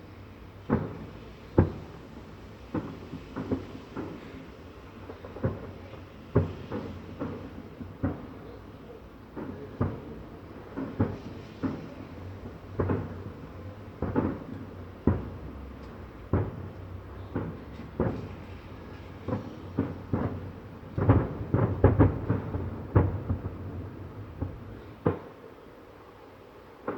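Fireworks salute shells bursting overhead: irregular booms a second or so apart, with a quick run of bursts about three-quarters of the way through.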